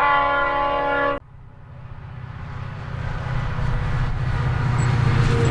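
Diesel locomotive horn sounding one chord-like blast that cuts off suddenly about a second in, followed by the low drone and rumble of an approaching coal train, growing steadily louder.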